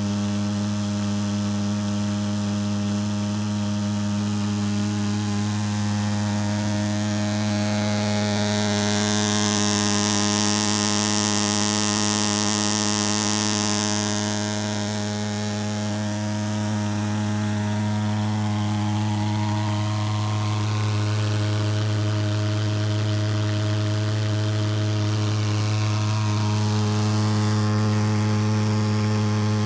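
Pulsejet engine of a thermal fogger running steadily: a low, even buzz with many overtones. A hiss joins in from about nine to fourteen seconds in.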